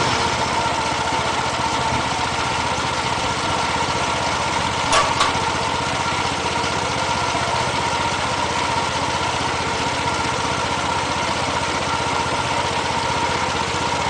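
Boaz mini combine's gasoline engine running steadily at idle with the thresher clutch disengaged, and one brief knock about five seconds in.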